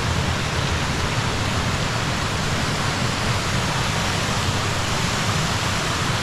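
Rushing water of a mountain stream: a steady, even rush.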